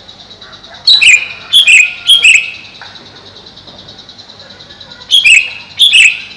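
Greater green leafbird giving loud, sharp calls: two bursts of about three quick notes, each dropping in pitch, one burst about a second in and another near the end. A steady high-pitched pulsing buzz runs underneath.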